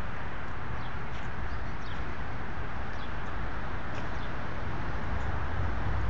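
Outdoor ambience: a steady low rumble and hiss, with short falling bird chirps every second or so.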